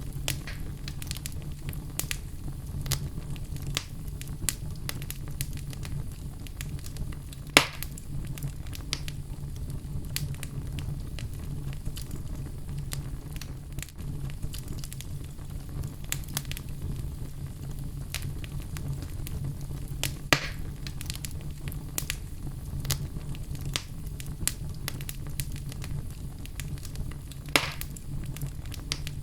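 Wood fire burning in a fireplace: a steady low rumble with frequent small crackles and three louder pops.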